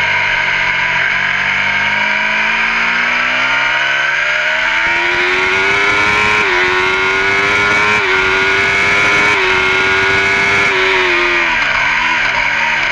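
Racing superbike engine heard from the onboard camera at full race pace: the pitch drops at first, then climbs hard with brief dips at each upshift, holds high, and near the end falls and rises several times in quick succession as the rider shifts down.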